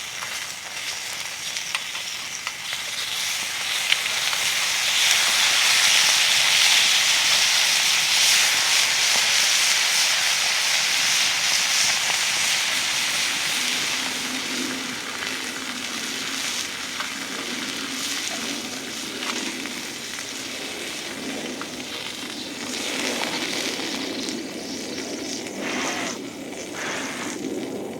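Food frying and sizzling in a hot pan, swelling about a fifth of the way in and then easing off gradually, with a few small ticks and clinks.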